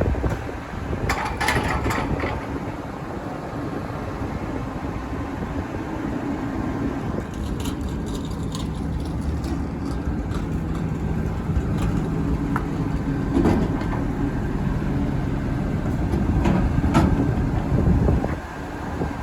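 Burrtec refuse truck number 1296's engine running steadily, with several sharp knocks and clanks heard over it now and then.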